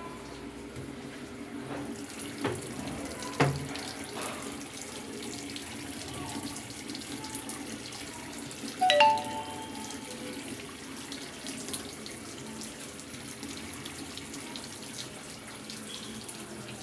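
Water running steadily, as when a top-loader washing machine fills its drum. There are two sharp knocks a few seconds in, and a short, loud electronic beep a little before halfway.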